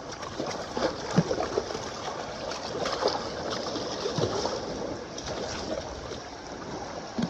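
Hooked sockeye salmon splashing at the river's edge as it is landed: irregular splashes, the strongest about a second and three seconds in, over the steady rush of river water.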